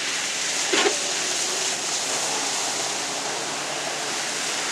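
Tuff truck ploughing through a deep water and mud pit: a steady rushing wash of water and spray, with a brief louder burst about a second in.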